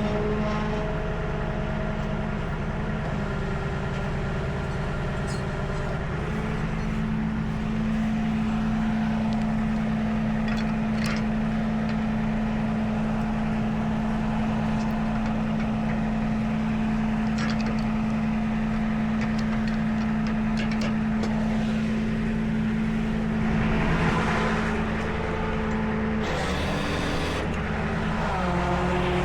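Tow truck engine running steadily under load from its boom hydraulics while a vehicle is being lifted. The engine speed steps up about six seconds in, holds, and drops back near the end, with a few light clanks along the way.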